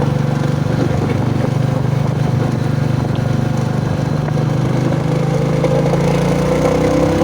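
Royal Enfield Bullet motorcycle's single-cylinder engine running on the move, a steady note that rises gently over the last couple of seconds.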